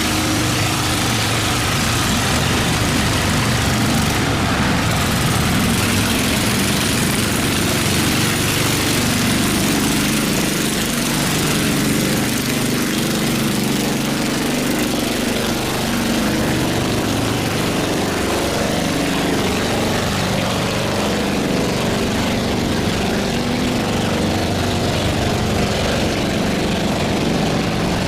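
Boat engines running steadily: a low engine drone with a dense hiss over it.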